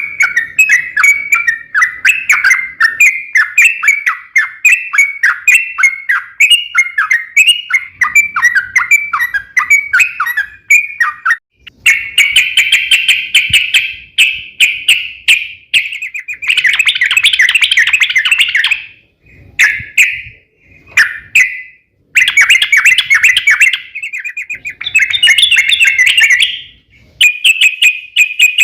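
Yellow-vented bulbul (trucukan) singing a loud, rapid chattering song. Quick separate notes give way, about twelve seconds in, to dense runs of several seconds each with short breaks between them.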